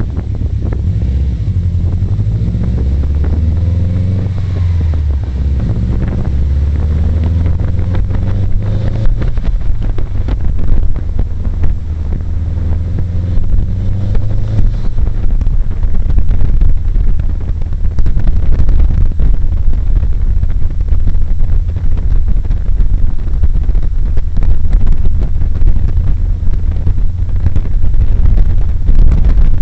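Subaru Impreza WRX STI's turbocharged flat-four engine accelerating, its pitch rising and dropping several times through the gear changes, picked up by a microphone outside by the front wheel. From about halfway on, loud wind buffeting on the microphone and tyre noise cover the engine.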